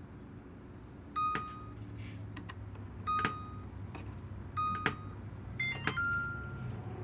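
LG microwave's keypad beeping as its buttons are pressed to set a 30-second run: three short beeps about a second and a half apart, then a click and a higher beep followed by a longer tone near the end, over a low steady hum.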